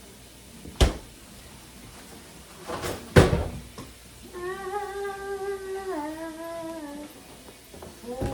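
Two sharp knocks, the second louder, as items are handled, then a woman humming a held note that steps down in pitch near the end.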